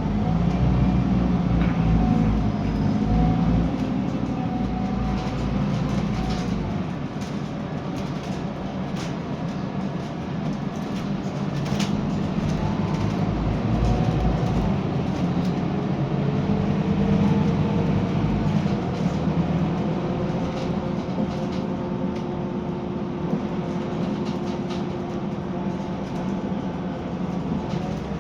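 Scania K320UB diesel city bus heard from on board, its engine pulling and easing off so that the low drone swells and fades, with a faint whining gear tone and scattered cabin rattles and clicks.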